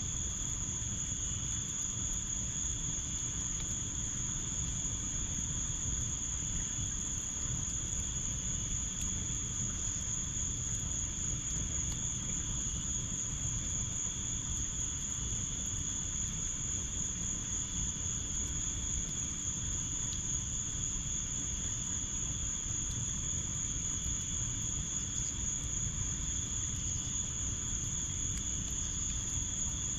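Steady, unbroken chorus of crickets trilling at two high pitches, over a low steady rumble.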